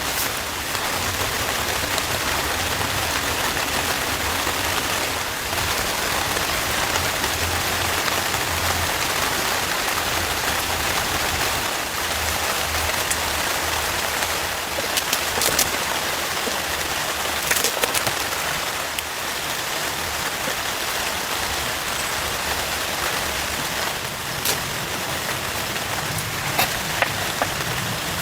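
Heavy rain falling steadily, with scattered sharper drop hits striking close by, in a cluster about halfway through and again near the end.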